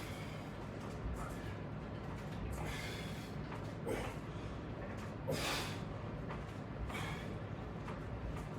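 A man breathing out hard in short bursts, about four breaths a second or so apart, during resistance-band rowing reps, over a low steady room hum.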